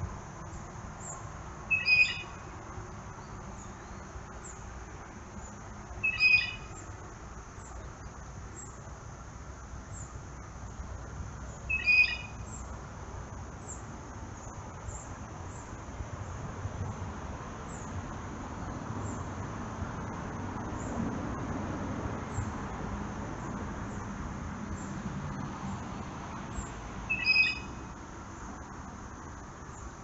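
A wild bird gives four short calls, spaced several seconds apart with a long gap before the last one, over a steady high insect trill.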